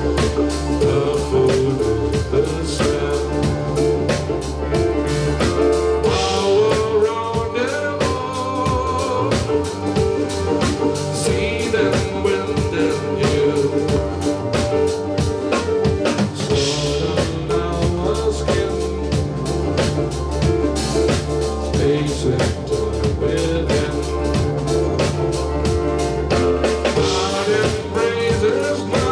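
Live rock band playing, with a drum kit keeping a steady beat over sustained bass and instrument tones.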